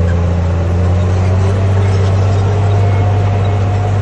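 Diesel engine of heavy earth-moving machinery running steadily under load, a loud, even low drone.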